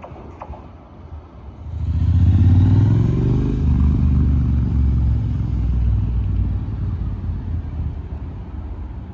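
A motor vehicle passing close by. Its engine hum rises suddenly about two seconds in, dips a little in pitch as it goes by, then slowly fades.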